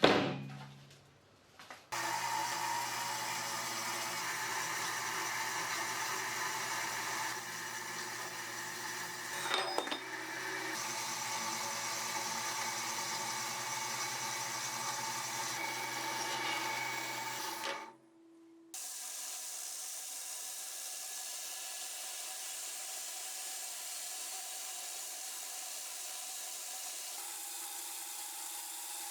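Electric power tool running steadily with a constant motor hum, starting abruptly about two seconds in. About eighteen seconds in it cuts off and a quieter steady tool noise takes over.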